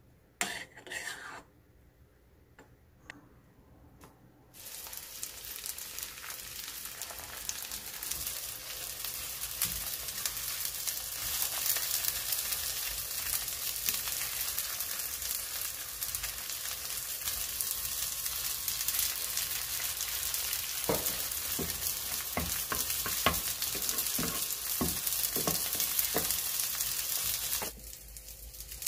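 Squid jeon frying in oil in a pan: a steady sizzle starts about four seconds in, after a couple of small knocks, and builds up. Near the end come a run of light clicks, and then the sizzle cuts off suddenly just before the end.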